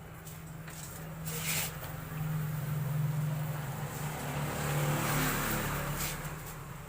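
A car engine running, swelling louder about two seconds in and easing off near the end.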